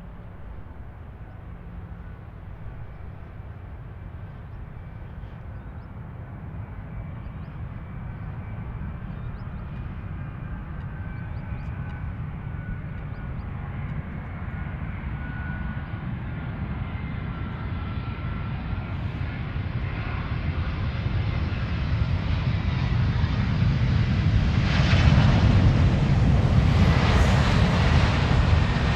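Boeing 777-200 airliner's jet engines on a landing approach, a low rumble with a faint whine that grows steadily louder as the aircraft comes closer. It is loudest about 25 seconds in, with more hiss.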